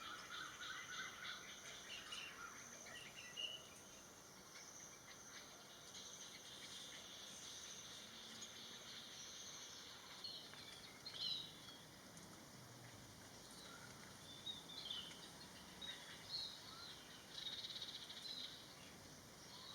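Faint outdoor ambience of a tropical garden: short bird chirps now and then, a few louder ones in the latter half, over a steady, fast-pulsing insect trill that is strongest in the first few seconds.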